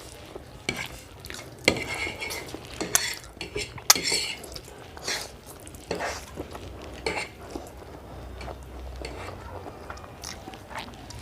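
Cutlery clinking and scraping against plates in irregular short strokes while instant noodles are eaten.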